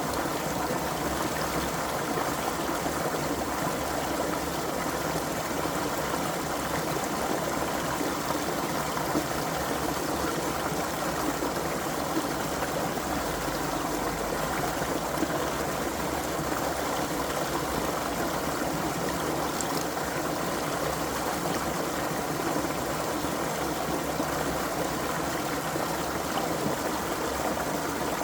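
Creek water flowing steadily over stones: an even, continuous babble and trickle.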